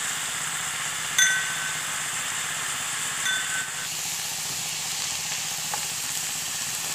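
Papaya leaves and pork stir-frying in a pan, sizzling steadily. Two ringing clinks sound against the pan, about a second in and again around three seconds in.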